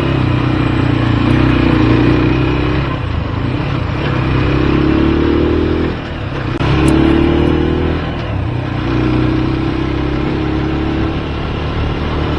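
Motorcycle engine running under load while riding, its pitch rising through each gear and dropping back at the shifts, with a brief lull about six seconds in.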